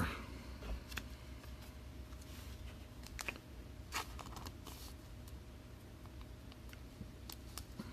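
Faint clicks and scratchy rustles of trading cards being handled, scattered every second or so over a low steady room hum.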